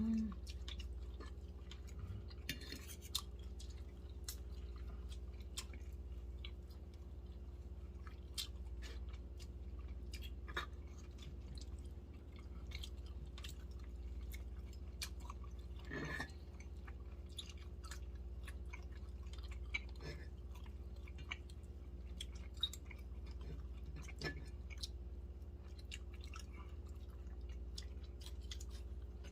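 People chewing and eating smoked chicken, with scattered small clicks and taps, over a steady low hum.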